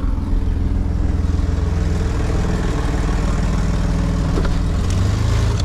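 2002 Chevy Blazer's 4.3L Vortec V6 running loud and steady, with its O2 sensors pulled so the exhaust blows out of the open sensor ports ahead of catalytic converters that are clogged.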